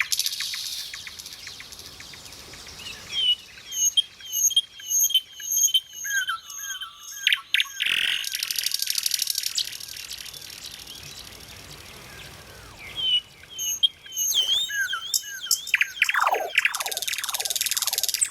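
A songbird singing a long, varied song: runs of quick repeated chirps, buzzy trills, and near the end a series of fast falling whistled notes, with short pauses between phrases.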